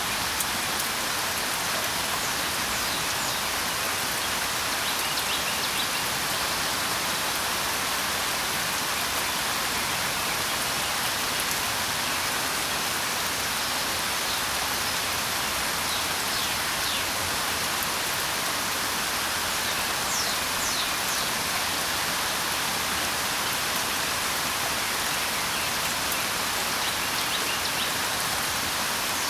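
Steady rain falling, an even hiss throughout. Faint, short, high bird chirps come through it now and then, a few times in scattered clusters.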